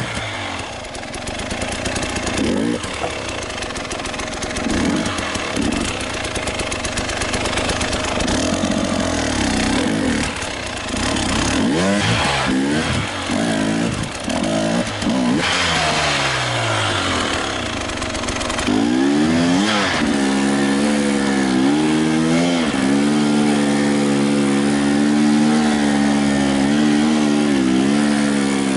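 Enduro motorcycle engine revving up and down in repeated bursts, then holding a steady throttle from about twenty seconds in.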